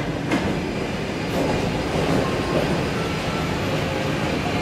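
ED9MK electric multiple unit train running past the platform as it arrives: a steady rumble of wheels on rail, with a clack of wheels over a rail joint shortly after the start.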